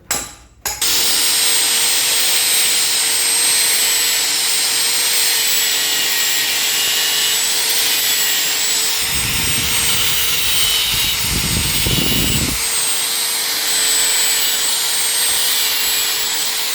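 Compressed air blowing from a workshop blow gun: a loud, steady hiss with a thin whistle, starting about a second in and running unbroken, with a deeper rush twice in the middle.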